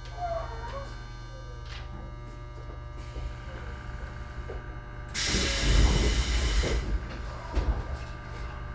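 Tobu 20400-series electric train standing at a station, heard from inside the car: a steady electrical hum from the car's equipment, with a short warbling whine in the first second. About halfway through, a loud hiss of compressed air lasts roughly a second and a half.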